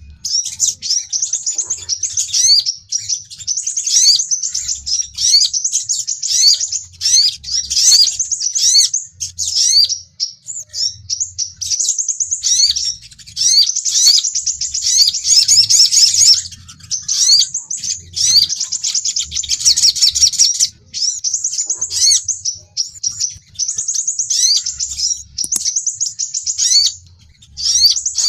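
Sunbirds giving rapid, high, sharp chirps and quick rising notes in dense bursts of a few seconds with short breaks: the excited, fighting calls of sogon and crimson sunbirds, used as a lure call.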